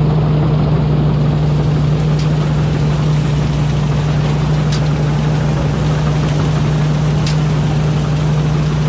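Rice combine harvester's engine running at a steady speed with a constant hum. A faint click comes about every two and a half seconds.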